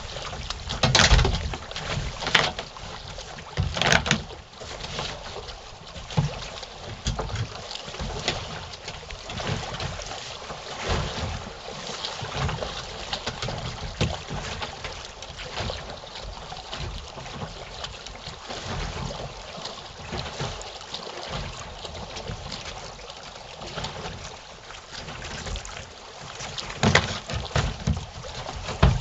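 A kayak on choppy lake water: the water sloshes and wind rumbles on the action camera's microphone. A few louder bumps come about a second in, around the fourth second, and near the end.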